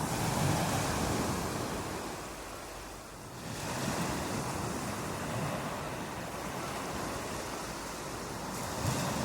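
Ocean waves breaking on a beach: a steady wash of surf that swells at the start, ebbs about three seconds in, and builds again with the next waves, swelling once more near the end.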